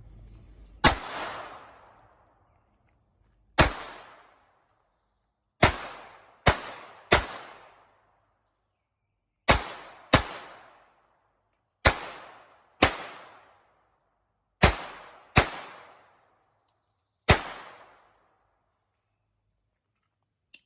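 Twelve shots from a Walther PPQ .22 LR pistol, fired at an uneven slow pace with several quick pairs. Each crack trails off over about a second.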